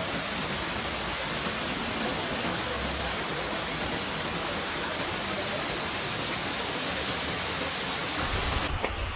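Steady, even rush of torrential rain and floodwater. A low rumble comes in near the end.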